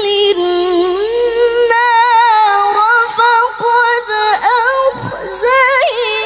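A woman reciting the Qur'an in the melodic tilawah style, holding long, high, ornamented notes with a wavering vibrato and brief breaks between phrases.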